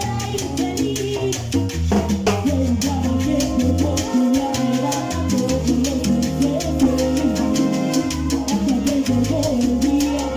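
Salsa band playing, with stepping bass notes and steady percussion.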